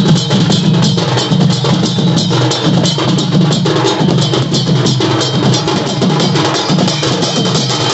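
Loud music driven by fast, dense drumming with a heavy bass drum.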